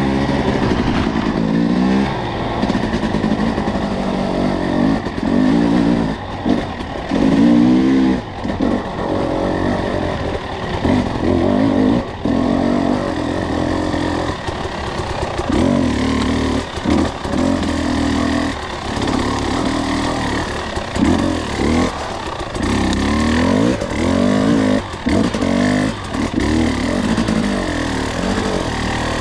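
Two-stroke enduro dirt bike engine pulling at low revs, short-shifted for traction on a slick trail. Its pitch rises and falls with the throttle, easing off briefly every few seconds.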